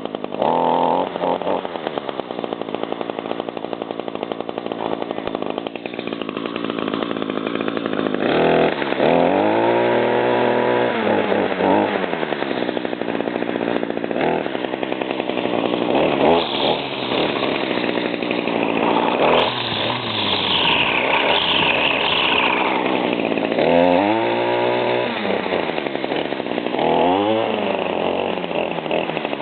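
Echo GT225 string trimmer's small two-stroke engine running just after a cold start, idling with its throttle opened and let back down several times: one long rev about a third of the way in and two or three shorter ones near the end.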